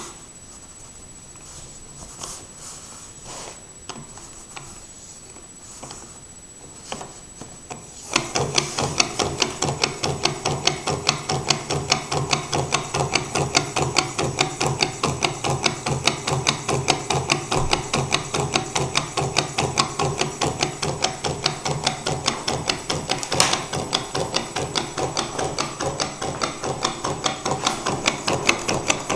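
Gamma-type V-twin Stirling engine: a few faint clicks, then about eight seconds in it starts running with a steady, rapid mechanical clatter of about five beats a second.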